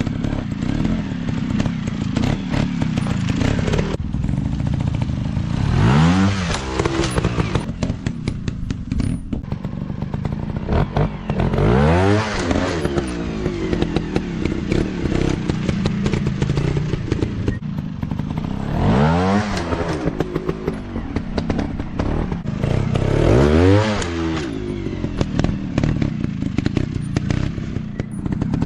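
Dirt bike engines running off-road, revving hard in four bursts that rise in pitch, with clattering knocks between.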